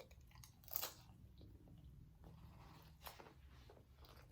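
Faint close-miked eating sounds: chewing a mouthful of food, with a few brief crunches, the sharpest about a second in and another around three seconds in.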